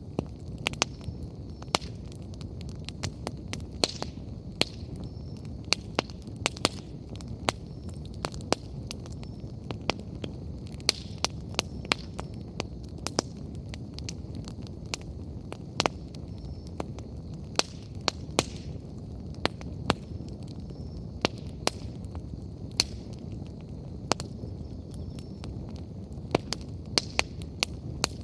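Wood bonfire burning, with a steady low rumble under irregular sharp crackles and pops from the burning firewood.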